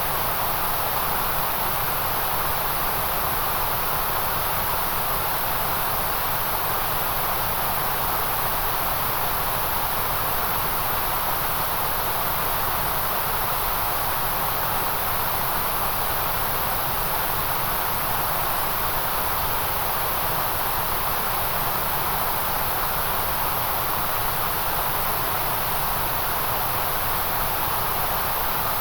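Steady white noise: an even, unchanging hiss with no breaks or variation.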